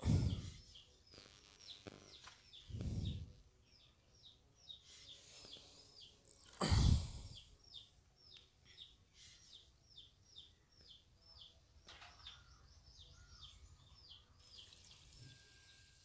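A small bird chirping over and over, short high falling chirps about two a second. Three dull low thumps break in: one at the start, one about three seconds in, and the loudest about seven seconds in.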